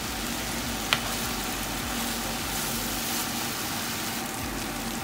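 Diced ham frying in a pan, a steady sizzling hiss, with one sharp click about a second in.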